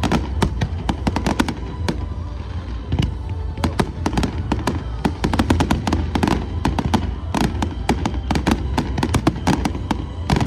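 Aerial fireworks bursting in a dense, continuous barrage, several sharp bangs and cracks a second with no let-up.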